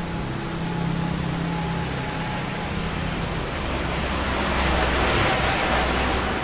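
Engine of a fuel-injected vehicle running steadily at idle, with a louder rush of noise swelling about four seconds in.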